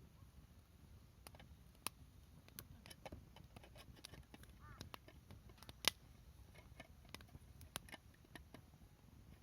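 Wood fire crackling softly, with scattered sharp pops, the loudest about six seconds in, over a low rumble of burning.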